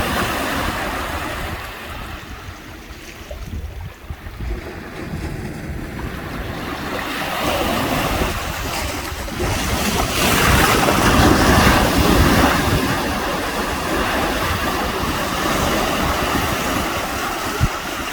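Ocean surf washing onto a sandy beach, with wind buffeting the microphone. The waves swell loudest about ten seconds in.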